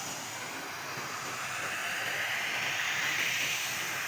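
Stream below a waterfall, water rushing and splashing with a steady hiss that grows a little louder about halfway through.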